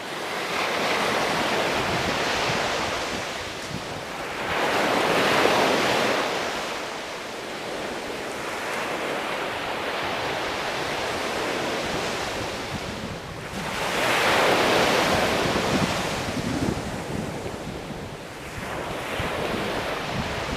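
Ocean surf: waves rolling in and washing up, swelling and falling every few seconds, with the biggest surges about five seconds in and again around fourteen seconds.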